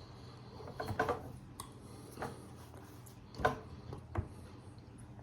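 Someone chewing a piece of beef jerky close to the microphone: a few soft, scattered mouth clicks and smacks.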